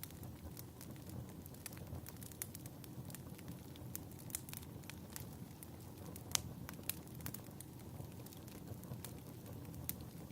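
Crackling fireplace: irregular sharp pops and snaps, several a second, over a low steady rush of the burning fire.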